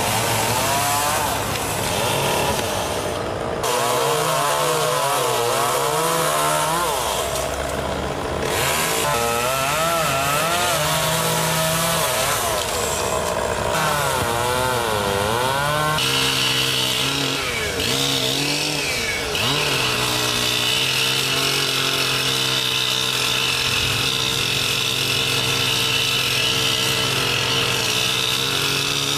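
Gas chainsaw cutting tree branches, its engine note rising and falling again and again as it revs and slows in the wood. For the last third it runs at a steady high speed.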